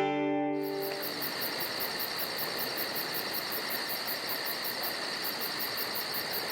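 Insects chirring steadily in a high, evenly pulsing rhythm of several pulses a second, over a soft background hiss; the last notes of a banjo tune die away in the first second.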